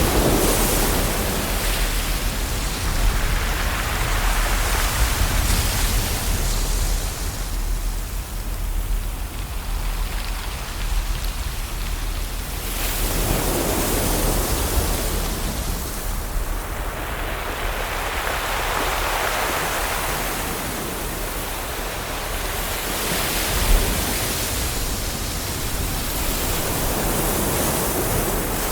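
Ocean surf: waves breaking and washing in, a rush of water that swells and falls back every several seconds.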